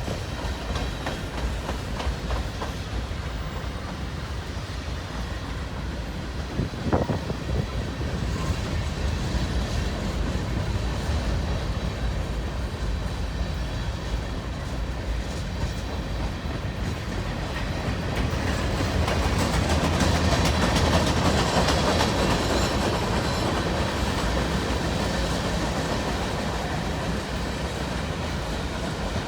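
Cars of a long mixed manifest freight train rolling steadily past, wheels clicking over the rail joints over a low rumble. One brief sharp sound about a quarter of the way in, and the train runs louder for a few seconds past the middle.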